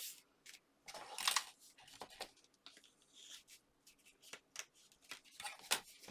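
Card and paper being handled on a work surface: scattered brief rustles and light taps, the loudest about a second in and again near the end.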